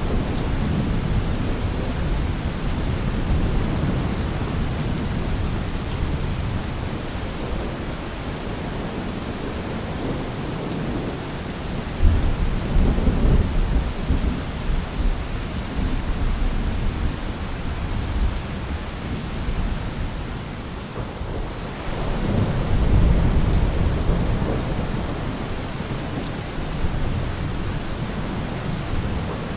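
Thunderstorm: steady heavy rain with rolling low thunder. A sudden sharp thunderclap breaks in about twelve seconds in, and another long rumble swells about ten seconds later.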